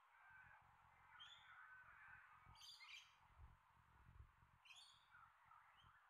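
Faint wild birdsong: scattered short chirps and calls, the clearest cluster about halfway through and another near the end.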